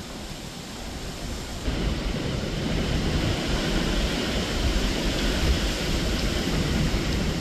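Hurricane-force wind roaring and buffeting the microphone, with a stronger gust coming in about two seconds in and holding.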